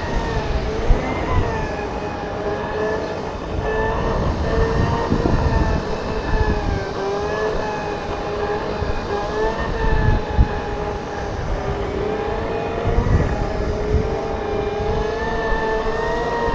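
Segway's electric drive motors whining steadily, the pitch drifting up and down as the speed changes, over wind rumble on the microphone with a few short knocks.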